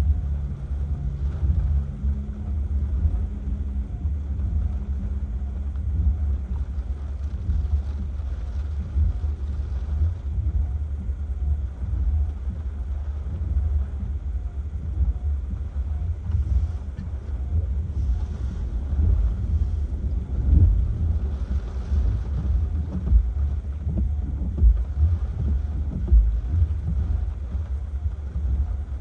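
Hurricane-force wind buffeting the microphone: a heavy, continuous low rumble that swells and eases with the gusts.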